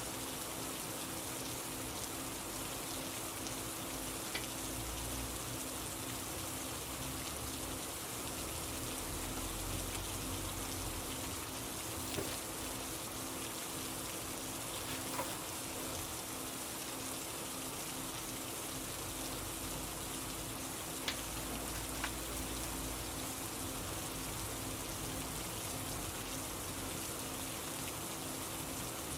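Steady rain falling, an even hiss with a few scattered soft ticks and a faint low hum underneath.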